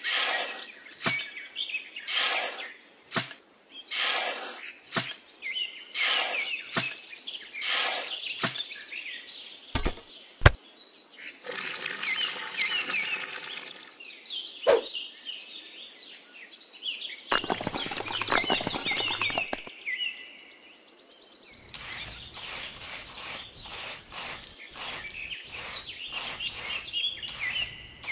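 A small hand trowel scraping and slapping wet cement mortar in short repeated strokes, then wet cement poured into a shallow tray and smoothed with the trowel. Birds chirp in the background.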